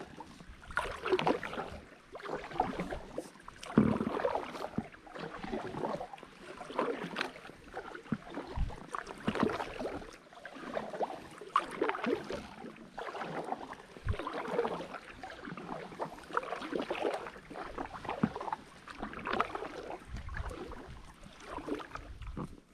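Kayak paddle strokes in water, with splashing and dripping coming in a steady rhythm, a stroke about every second or so.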